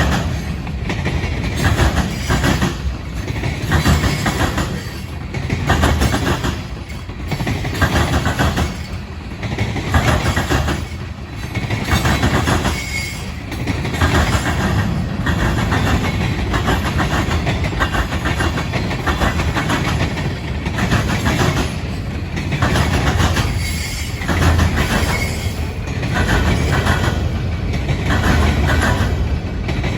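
Norfolk Southern freight cars rolling past, their wheels clicking over the rail joints in a steady repeating clickety-clack.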